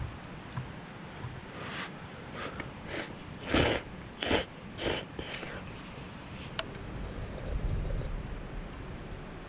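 A person slurping ramen noodles: a run of six or seven short slurps, the loudest about midway.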